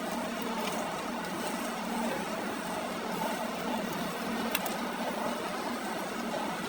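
A workshop machine running steadily: a constant hum with a hiss of noise over it, and one brief sharp click about four and a half seconds in.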